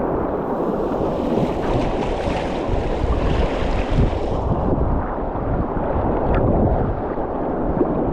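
Steady rushing of creek water heard from a kayak, mixed with wind buffeting an action-camera microphone.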